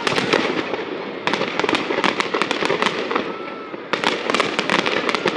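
Aerial fireworks display: dense, rapid crackling and popping from many bursting shells, coming in clusters with brief lulls about a second in and just before four seconds in.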